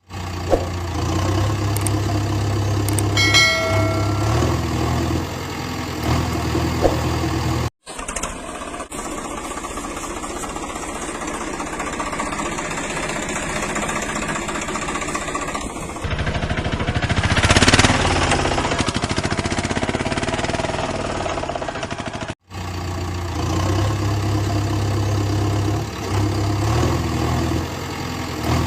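Cartoon engine sound effects for toy vehicles: a steady idling engine whose pitch steps up and down, cut off abruptly twice for a rougher, louder engine noise in the middle, then the first idling sound again.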